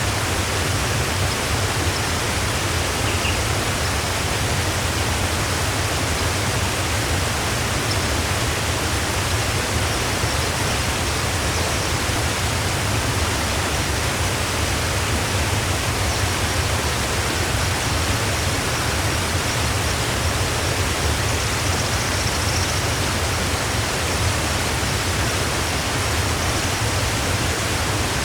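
A waterfall's water pouring steadily, an unbroken even rush with a deep low rumble under it.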